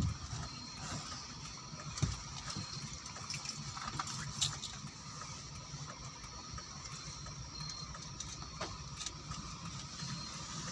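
Steady rain falling, a continuous hiss with scattered drops ticking, over a faint low rumble.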